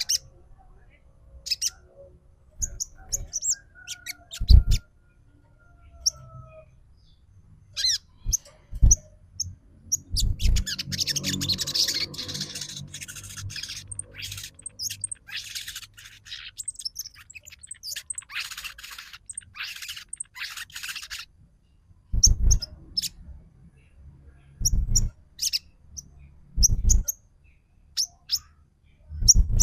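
Sogon bird calling: short sharp chirps and thin whistles, broken by a long harsh rasping chatter from about ten to twenty-one seconds in. Several dull low thumps are scattered through it.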